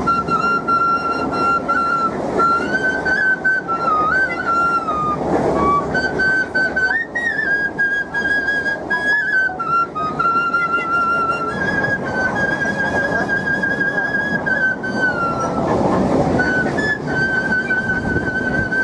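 Bamboo flute (bansuri) played with the nose, a melody of long held high notes with small bends and steps between them. Underneath is the steady rumble of a moving local train.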